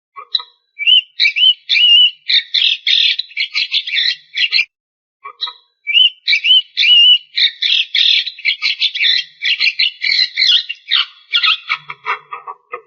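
Javan myna (jalak kebo) singing: a few curving whistled notes, then a long run of rapid, harsh chattering notes. After a short pause about five seconds in, the same pattern comes again.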